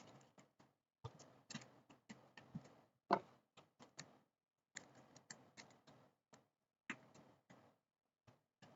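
Faint, irregular clicks and light taps of small phone parts and tools being handled while the Face ID module is fitted back into an iPhone, with a slightly louder click about three seconds in and another near seven seconds.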